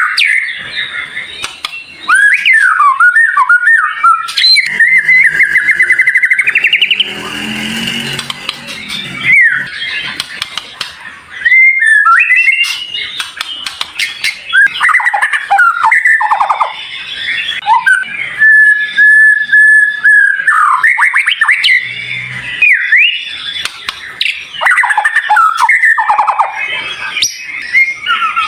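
Recorded songbird song played as a masteran (tutor track) for white-rumped shamas: a dense stream of fast, high-pitched whistles, trills and rising and falling sweeps, with a long steady whistled note about two-thirds of the way through.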